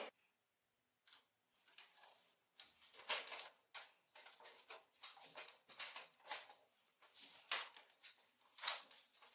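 A hand tool scraping at the crusted rust and dirt on an old metal oil lamp, in short irregular strokes about one or two a second.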